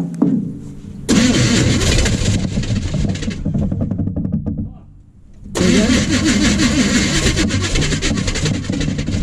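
Starter motor cranking a 1980 Chevy K30's small-block 350 V8 in two bursts of about four seconds each, with a short pause between. The engine does not catch: its carburetor bowl is being fed fuel by hand.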